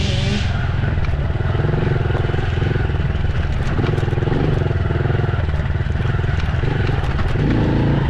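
Dirt bike engine running while being ridden, its pitch rising and falling several times as the throttle is worked.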